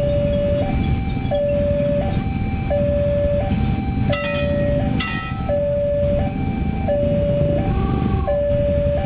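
Railway level-crossing warning alarm sounding, a two-note electronic chime with a higher and a lower note alternating, each held just under a second, over a low rumble. Two short, sharp sounds come about a second apart in the middle.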